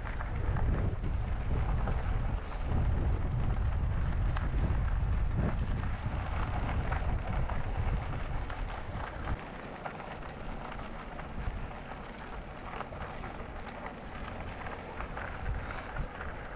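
Wind buffeting the microphone of a riding e-bike's camera, over the rush of tyres rolling on the trail. The low rumble drops off about halfway through, leaving a steady hiss.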